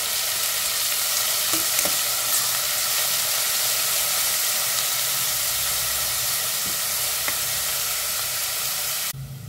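Chopped onions sizzling in hot oil in a pan, stirred with a spatula that scrapes now and then; the steady sizzle cuts off sharply near the end.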